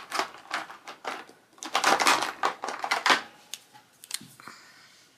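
Plastic pens clicking and clattering as they are rummaged through and handled, in quick irregular clusters that thin out toward the end.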